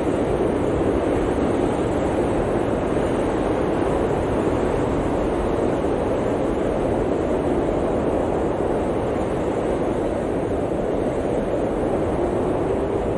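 Blizzard wind blowing steadily, an even, deep rushing noise with no gusts or breaks.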